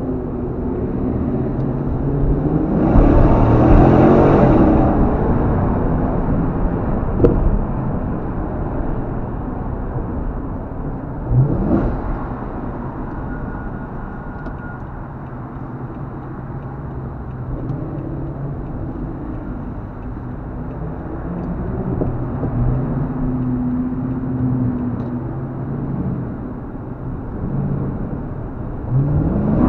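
Car engine and road noise heard from inside the cabin while driving, with the engine revving up several times: the loudest swell about three to five seconds in, shorter rising revs near twelve seconds and again at the end.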